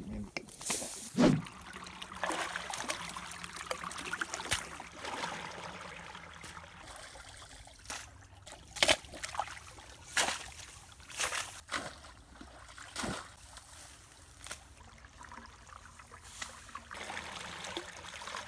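Shallow flood water in a rice field sloshing and trickling, broken by several sudden splashes. The loudest comes about a second in, and a cluster follows between about eight and thirteen seconds.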